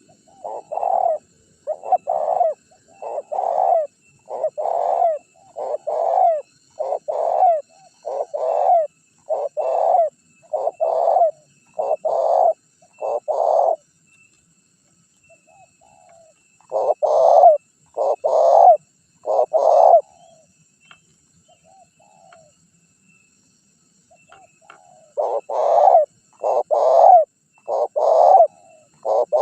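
Spotted dove (tekukur) cooing: a run of about fifteen coos, roughly one every three-quarters of a second, then a pause, a short run of four, another pause, and a fresh run near the end. This is the dove's calling song used as a lure to draw in wild rivals.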